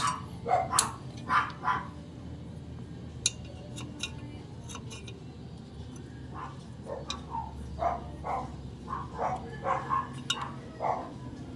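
Short animal calls repeated in irregular groups, with a few sharp clicks and a steady low hum underneath.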